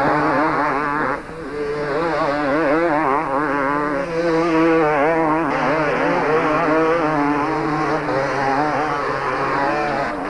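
Several two-stroke motocross bikes racing, their engines revving up and down rapidly. The sound dips briefly about a second in.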